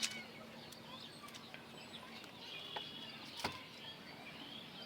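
Faint birds chirping, scattered short calls and brief rising and falling notes, with a single sharp click about three and a half seconds in.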